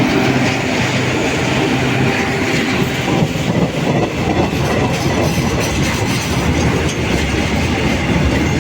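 Empty oil tank wagons of a slow freight train rolling past, their wheels clattering over the rail joints.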